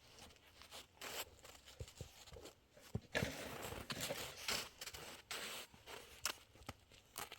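Irregular crunching and scraping: a series of short, sharp scrapes, with a longer rustling stretch about three to five seconds in.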